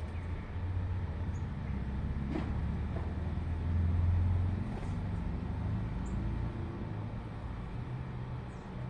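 A steady low rumble with a few faint, very short high bird chirps scattered through it.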